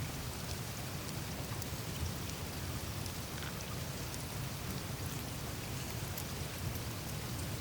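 Surface of the Greenland ice sheet melting: a steady wash of meltwater trickling through the ice over a low rush, with scattered small drips and ticks of ice.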